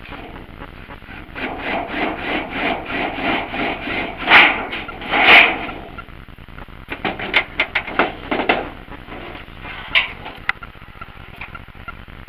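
Hand tool rasping through wood in a run of quick, even back-and-forth strokes, with two louder strokes about four and five seconds in. A burst of sharper strokes follows, then a couple of knocks.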